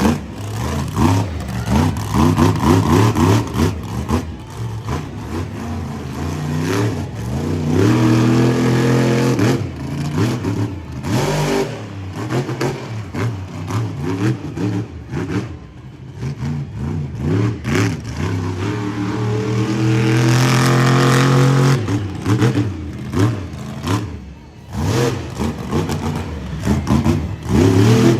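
Monster truck engine revving hard in repeated bursts, the pitch climbing and dropping, with two long full-throttle pulls held for a few seconds each, about eight and about twenty seconds in.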